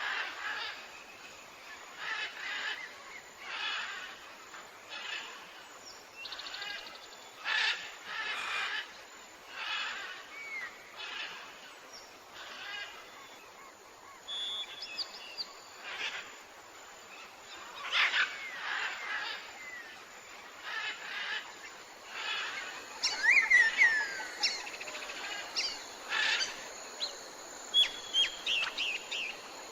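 Tropical forest ambience of many birds calling, with a call every second or two over a steady background hiss. Quick whistled chirps that slide in pitch and a short trill come in near the end.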